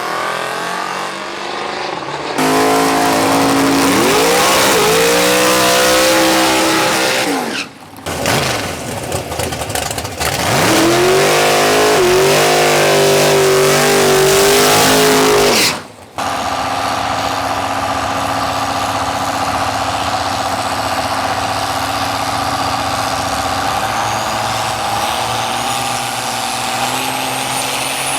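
Drag-racing vehicles launching and accelerating down the strip, the engine pitch climbing and falling back through gear changes, in two passes that each cut off abruptly, about 8 and 16 seconds in. Then a steadier engine hum, with a high whine rising near the end.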